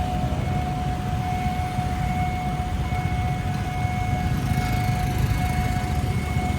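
Steady motorcycle and traffic engine noise at a railway level crossing. Over it, a single unbroken high electronic tone sounds the whole time: the crossing's warning alarm.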